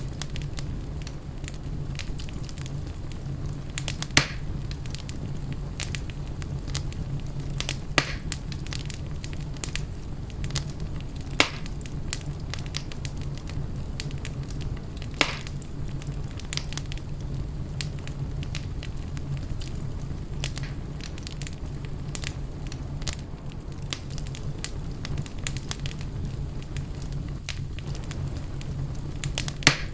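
Fire in a fireplace crackling steadily over a low rumble, with a few sharper, louder pops every few seconds.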